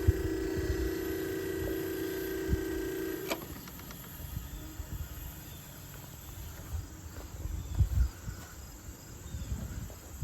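1956 Fedders half-horsepower room air conditioner running with a steady hum, which cuts off abruptly with a click about three seconds in as the unit is shut off. Afterwards there are low, irregular rumbles on the microphone and faint insect sounds.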